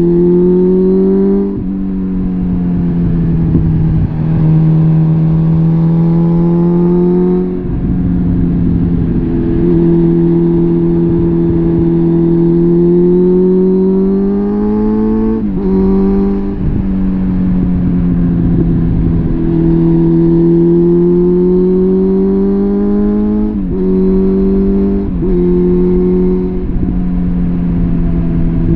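Suzuki GSF650 Bandit's inline-four engine through a full Arrow exhaust system, under way on the road. Its note climbs slowly under throttle and drops sharply at several gear changes, over a low rumble.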